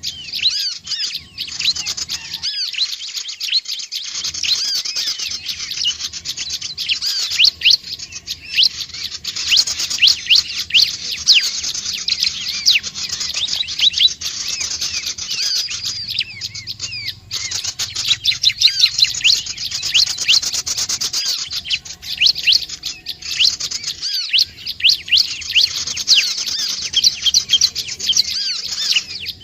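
Prinia (ciblek/prenjak) song: a dense, continuous run of rapid, high, thin chirps, the kind of call played as a lure to draw other small birds in.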